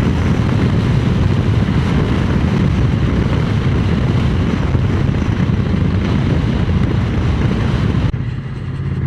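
Heavy wind rushing over the microphone of a moving motorcycle, with the Triumph Speed Twin 900's parallel-twin engine running steadily underneath. Near the end the rushing suddenly drops away.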